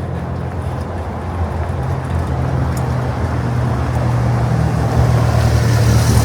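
A motor vehicle's engine running with a steady low hum, growing louder as it draws near, with a rising hiss toward the end.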